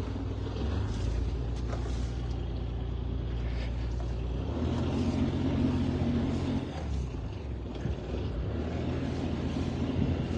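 Sailboat's auxiliary engine running under added throttle against the anchor, testing whether the anchor holds or drags. Its pitch shifts about four and a half seconds in and dips briefly near seven seconds.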